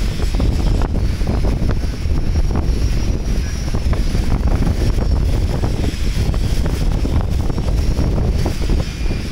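Strong wind buffeting the microphone: a loud, uneven low rumble with crackling.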